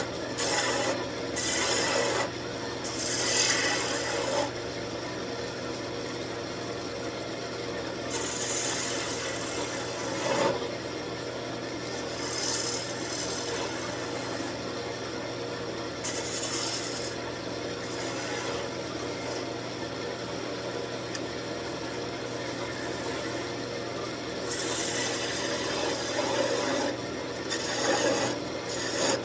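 Wood lathe running with a steady hum while a hand-held turning tool scrapes against the spinning wood in repeated passes. The passes are louder in the first few seconds and again near the end.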